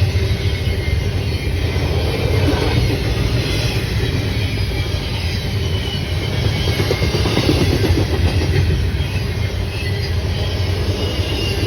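A train rolling past: a steady loud rumble of railcars on the track, with faint high squealing from the wheels.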